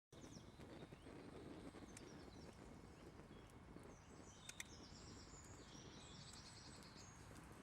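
Quiet outdoor ambience: faint birds chirping over a low background hiss, with a few small sharp clicks.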